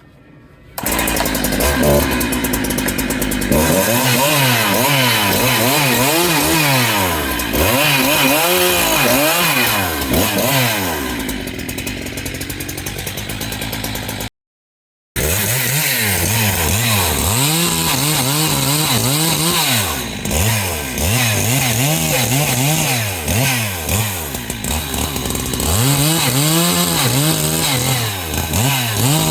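Husqvarna 372XP two-stroke chainsaw with a big-bore kit, revving up and down over and over as it cuts firewood. It comes in abruptly about a second in and cuts out briefly around the middle.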